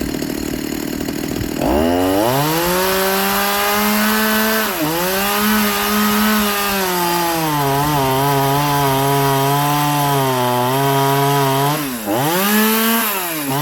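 Small two-stroke chainsaw revved up to full throttle and cutting wood, its engine speed sagging and wavering under load, then briefly dropping off and climbing again near the end. The uneven running under load is what is then called four-stroking: the carburettor is set too rich.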